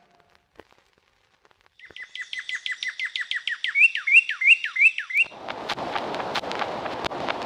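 Songbird singing a fast run of repeated down-slurred whistled notes, about five a second, ending in several rising, hooked notes. About five seconds in, a crackling hiss with scattered sharp clicks takes over.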